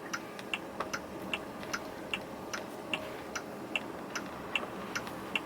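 A car's turn-signal indicator ticking in the cabin: a steady tick-tock, about two and a half clicks a second, over faint road noise.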